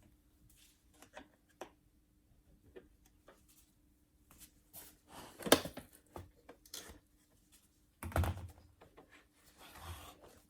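Scattered small clicks and knocks of hard plastic parts being handled, with one sharp click about halfway through and a louder rustling knock about two-thirds in, over a faint steady hum.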